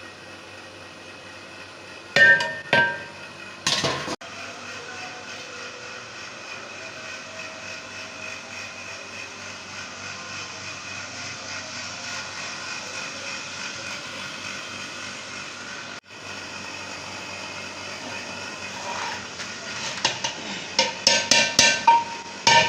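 Metal ringing strikes and clanks on a large metal cooking pot, a few about two to four seconds in and a quick run of them near the end, over a steady rushing background noise.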